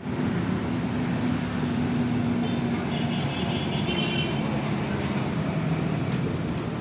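Heavy road traffic at a port terminal: the steady low hum of large diesel vehicles such as container trucks and buses, with a brief high-pitched whine about three to four seconds in.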